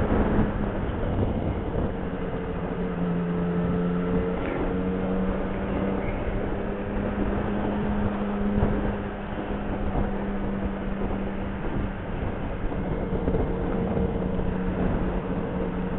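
Motorcycle engine running at a steady cruise, its note holding nearly constant with a few slight shifts in pitch, over wind and road rumble.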